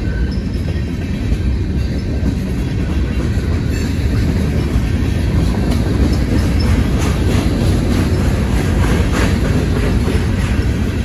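Cars of a manifest freight train rolling past: a steady low rumble of steel wheels on rail, with clicks of wheels over the rail joints that come thicker in the second half.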